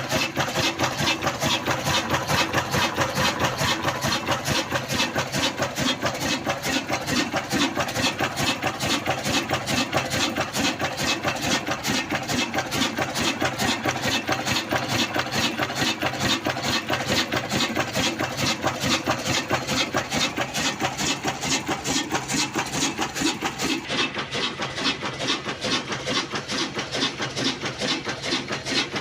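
Old black single-cylinder desi diesel engine running steadily under load, driving a flour mill, with an even, rapid beat of firing strokes.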